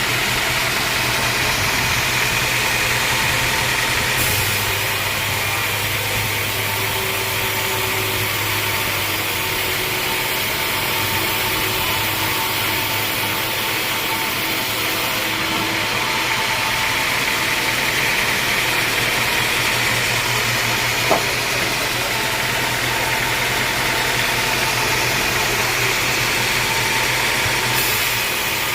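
Sawmill machinery running steadily: a continuous engine drone with a low hum and a high whine, and a single sharp click about 21 seconds in.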